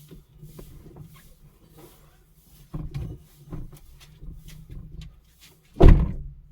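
Rustling and light knocks of things being handled inside a car, then a car door shut with one heavy thud about six seconds in.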